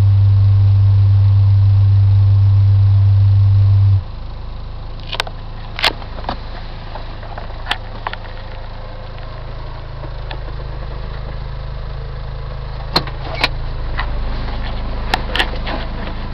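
A loud steady 100 Hz bass test tone played through the car's subwoofer system, cutting off suddenly about four seconds in. After it, the Vanden Plas 1750's engine idles with a low steady hum, broken by scattered sharp clicks.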